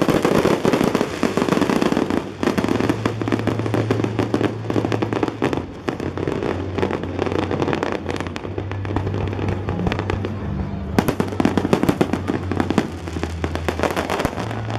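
Aerial fireworks display: dense, rapid crackling and popping from bursting shells, with music playing underneath.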